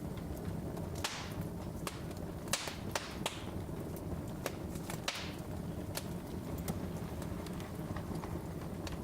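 Wood fire in a fireplace crackling: sharp snaps and pops at irregular intervals over a low steady rumble, a few louder pops trailing off in a short hiss.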